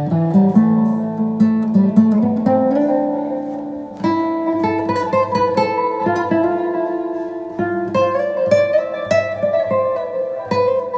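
Instrumental outro music: an acoustic guitar, plucked and strummed, playing a steady melodic line.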